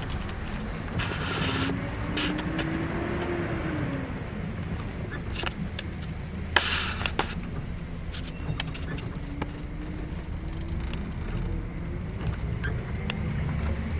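Scania K410IB double-decker bus under way: a steady low engine drone with road noise. The engine tone rises and falls about two seconds in and again from about eight seconds, with scattered rattles and two short hissing bursts, near the start and in the middle.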